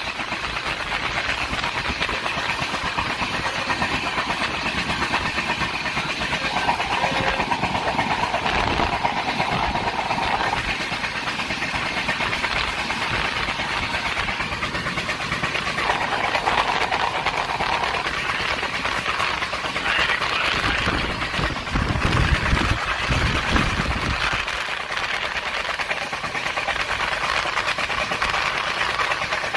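Passenger express train running on the rails: steady wheel-and-track noise with a rumble. A higher-pitched drone comes and goes twice, and the rumble grows heavier for a few seconds past the middle.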